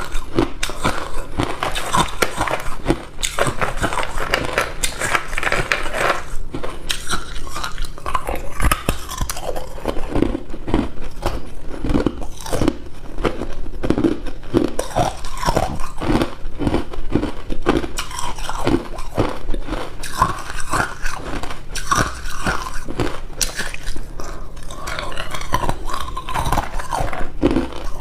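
A person biting and chewing hard ice cubes, a continuous irregular run of loud, sharp crunches.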